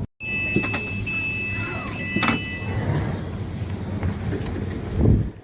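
A vehicle's steady running rumble. A high steady multi-note tone sounds for about the first two and a half seconds, and a few short knocks come through it.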